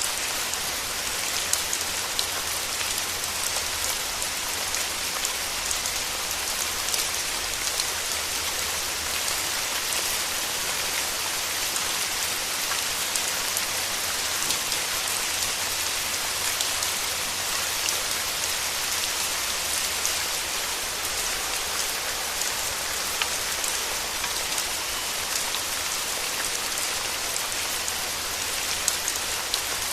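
Steady rain falling, a constant hiss with many close individual drops ticking through it.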